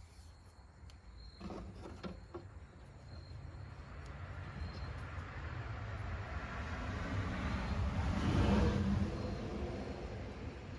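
A vehicle passing by: a low rumble that swells to its loudest about eight seconds in, then fades. There are a few light knocks near the start and faint cricket chirps.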